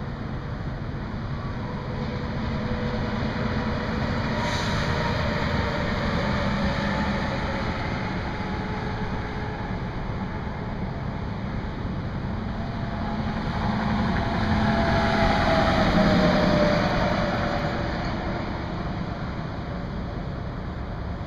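Two vehicles passing on the highway, each swelling up and fading away, the second louder, with a whine that drops in pitch as it goes by. A steady hiss runs underneath.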